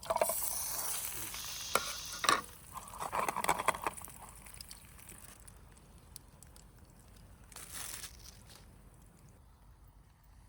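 Food sizzling in hot oil in a small frying pan, with a few knocks of the pan or utensil; the sizzle dies down after about four seconds, leaving only a faint hiss and one short burst near the end.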